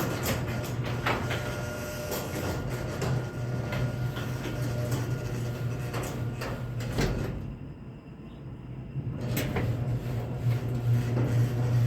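Chamberlain PD210 garage door opener running, a steady motor hum with the rattle and clatter of the door moving on its track. The sound drops briefly about eight seconds in, then the opener runs again.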